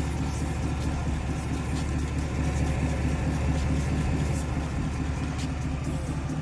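A car engine running steadily at low revs, with an even low hum.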